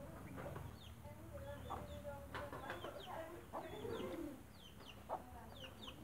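Several birds calling: many short, quick high chirps mixed with lower, shorter calls, scattered irregularly.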